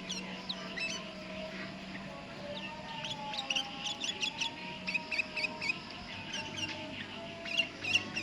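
Sooty-headed bulbuls (kutilang) calling busily: a stream of short, high chirps in quick succession.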